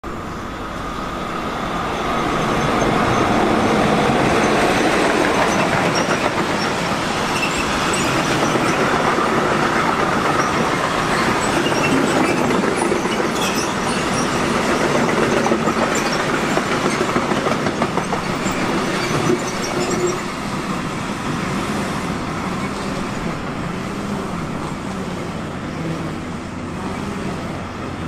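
A train passing along the line, its wheels running on the rails, with faint high squeals in the middle of the pass. The sound builds over the first few seconds, stays loud until about twenty seconds in, then slowly fades.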